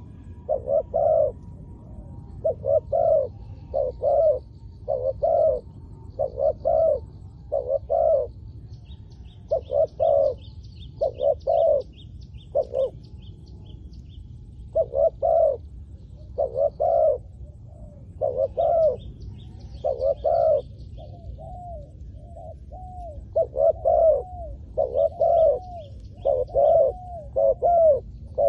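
Spotted dove cooing over and over: short, low coos in repeated phrases with brief gaps between them. Small birds chirp faintly in the background now and then.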